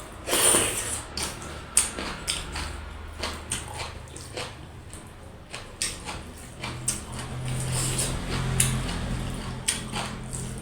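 Close-miked eating sounds of dhido and goat meat curry: wet chewing and lip smacks, with irregular sharp clicks.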